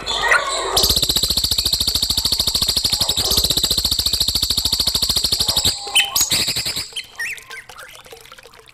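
Songbird call recorded as masteran training material: a fast, even buzzing trill lasting about five seconds, then a few short chirps.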